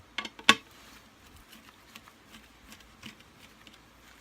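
Small clicks and taps of hand tools and screws against the hard plastic handle parts of a Kirby Sentria II vacuum as it is unscrewed: two sharp clicks about half a second in, a few faint ticks, then another sharp click at the end.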